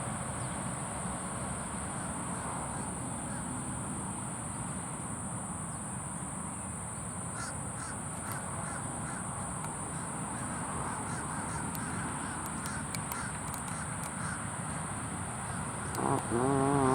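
A bird's call about a second before the end, loud and wavering, over a steady outdoor background hum.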